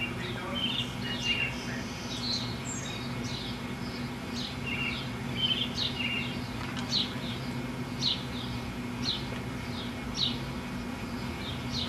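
Birds chirping: short, high, down-slurred notes, varied at first and then repeating about once a second, over a steady low hum.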